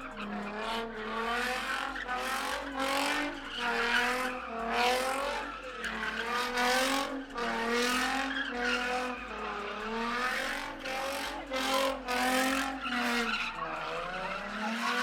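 A car's engine revving up and down in rapid swings while its tyres squeal and screech on the pavement, as in a car spinning donuts.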